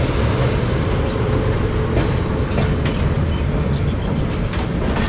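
Himsagar Express passenger train running slowly, heard from inside the coach: a steady low rumble with a few sharp wheel clicks.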